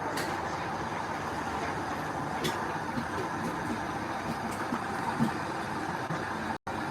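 Heavy diesel earthmoving machinery, bulldozer or dump truck, running steadily under load, with a brief louder knock about five seconds in; the sound cuts out for an instant near the end.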